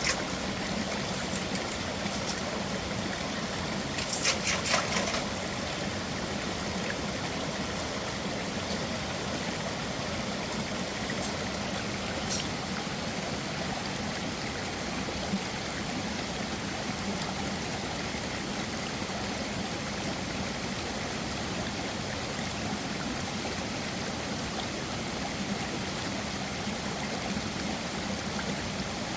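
Mountain stream running steadily, with a short cluster of clicks about four seconds in.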